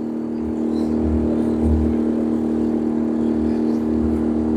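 Boat's engine droning steadily on board, a constant hum with an uneven low rumble beneath it.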